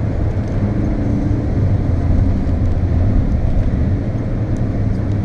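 Volkswagen Golf's engine and tyres on a wet track, heard from inside the cabin: a steady, loud low drone with road and spray noise.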